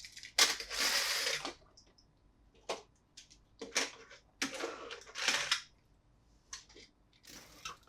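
Plastic toys and packaging being handled: several rustling, scraping sounds, each up to about a second long, with a few sharp clicks in between.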